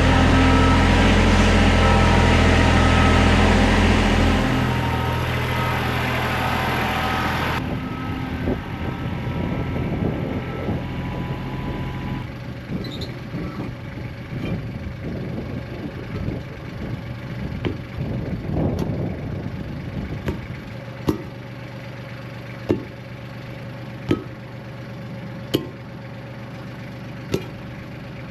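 A motor runs at idle with a steady low hum, then drops away a few seconds in. Quieter clattering and handling noises follow, and near the end come single sharp knocks about every second and a half.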